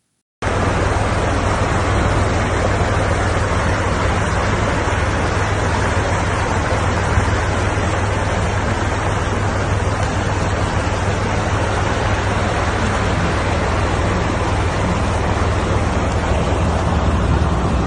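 Steady roar of rushing floodwater with a heavy low rumble underneath, starting about half a second in and holding even throughout.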